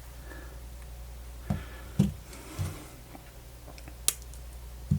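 Handling noise of small parts and tools on a workbench: a few soft taps and one sharp click, over a steady low hum.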